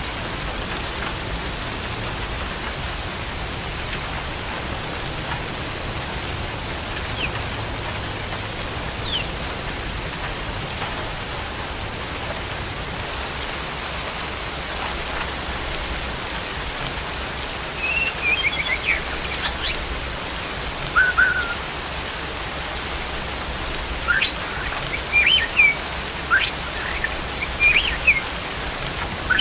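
Small songbirds giving short, sharp chirps and whistled notes, sparse at first and more frequent in the second half. Under them is a steady hiss with a thin, steady high-pitched tone.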